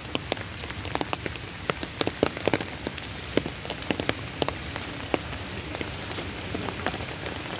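Steady rain falling on floodwater and a wet road: an even hiss broken by frequent, irregular sharp ticks of drops striking close by.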